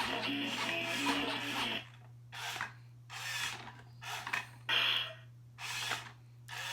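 A toy's dance tune plays and cuts off about two seconds in. It is followed by a run of short rubbing, scraping sounds, about one a second, from the plastic toy truck being handled.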